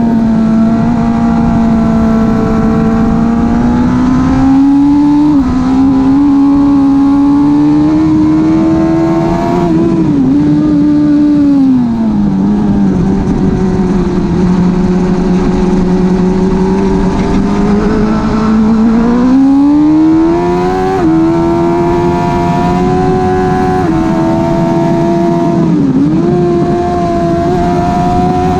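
2005 Suzuki GSX-R 1000's inline-four engine through a slip-on exhaust, heard onboard at speed. The revs rise and fall with throttle and gear changes: they settle to a lower, steady pitch for several seconds around the middle, then climb again, with brief dips near the end.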